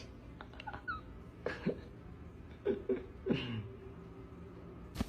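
An animal making three or four short, faint calls, some falling in pitch, with a few soft clicks in the first second.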